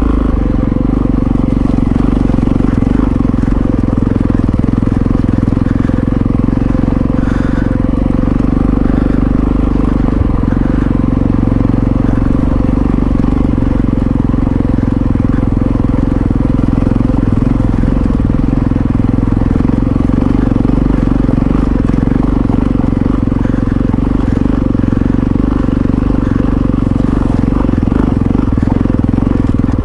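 Yamaha XT660Z Ténéré's single-cylinder engine running steadily under way, at an even pitch without big revs.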